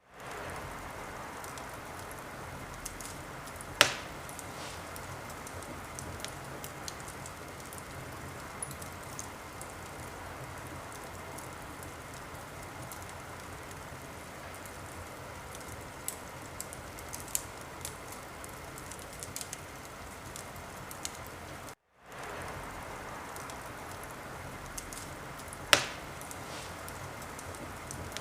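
Wood fire burning in a fireplace: a steady hiss with scattered small crackles and two loud pops, a few seconds in and near the end. The sound cuts out for a moment about 22 seconds in, then resumes.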